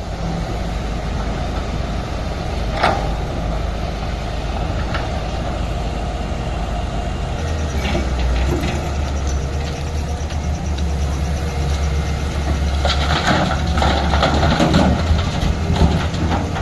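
Excavator's diesel engine running steadily; about seven and a half seconds in, its low note gets heavier and louder. A sharp knock comes near three seconds, and a stretch of metallic clanking and rattling follows between about thirteen and fifteen seconds.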